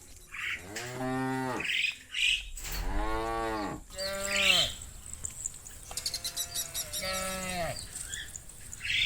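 Cows mooing: a series of about four loud moos, one after another, each rising and then falling in pitch.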